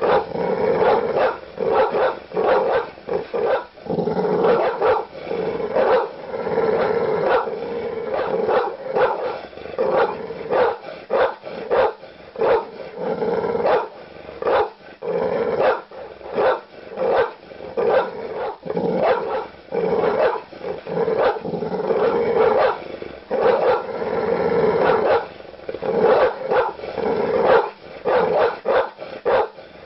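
Large dogs barking aggressively with deep barks, several a second, in a continuous run.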